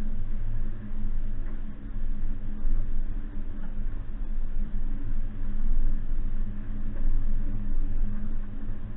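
Suzuki Jimny's 1.5-litre four-cylinder petrol engine running at a steady note while driving off-road, its level rising and falling every second or two.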